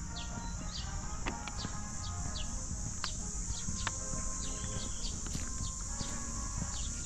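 Birds chirping: many short, high calls that fall in pitch, over a steady high hiss.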